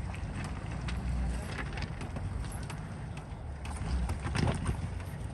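Off-road vehicle engine running with a steady low rumble, with scattered knocks and rattles from the vehicle driving over rough ground.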